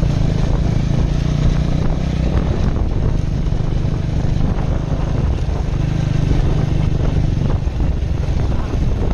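Husqvarna Vitpilen motorcycle engine running steadily on a ride, its low engine note under continuous wind and road noise.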